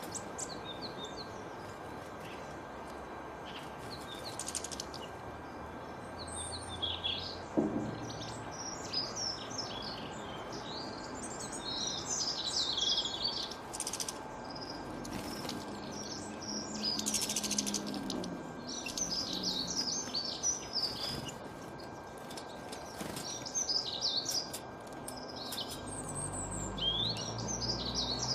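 Male canary singing: bursts of rapid high chirps and trills, phrase after phrase, over a steady background hiss.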